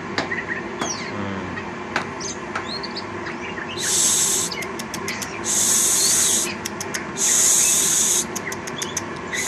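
Caged oriental magpie-robin (kacer) twittering softly in short, quiet chirps, the subdued song of a bird still settling near a person. Three short hissing bursts about a second apart, with quick clicks between them, are louder than the chirps.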